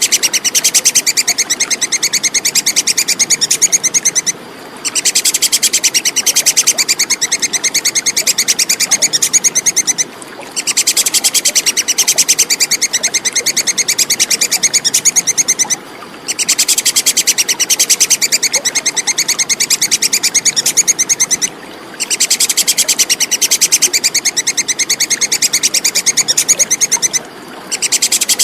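Squirrel (tupai kekes) giving its shrill, rapid chattering call, in bouts of about five seconds broken by short half-second pauses, as in a looped training recording.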